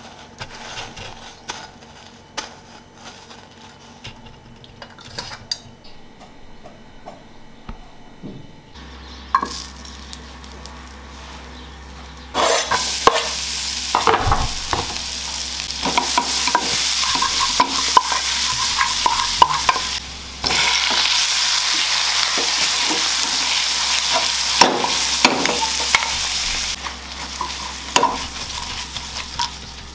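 Minced garlic frying in a pan: a loud, steady sizzle that starts about twelve seconds in, with a wooden spatula stirring and scraping across the pan. Before it, only quiet small ticks and rustling.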